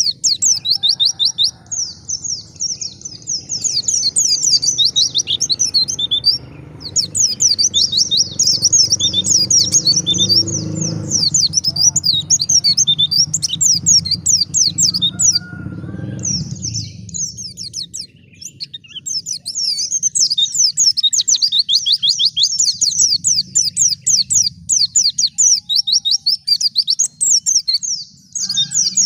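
White-eye (pleci) singing in fast, high chattering phrases of rapid chirps, nearly continuous with a few short breaks. A low rumble runs underneath through the first half and dies away a little after the middle.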